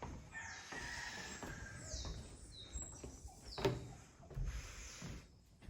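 Birds calling outdoors with high, down-slurred whistled chirps, repeated several times. There is a single sharp knock about two-thirds of the way through.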